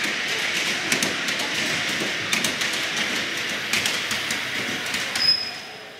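Railway coaches rolling past, wheels clicking over the rail joints, with a brief high wheel squeal about five seconds in before the sound fades away.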